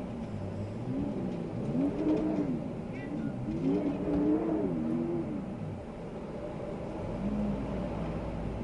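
Wind howling in gusts, a low moaning tone that rises and falls in pitch every second or two over a steady rush of air.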